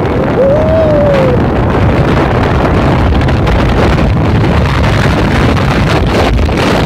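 Motorbike engine running while riding, under heavy wind noise buffeting the microphone. A short tone rises and then falls about half a second in.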